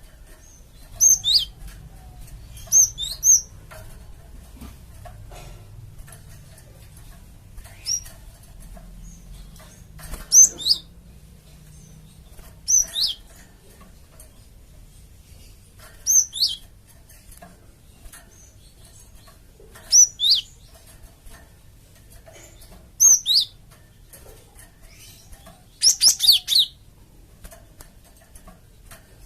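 Cinereous tit (gelatik batu) calling: short bursts of two or three high, quickly falling notes, repeated every few seconds, with a longer, quicker run of notes near the end.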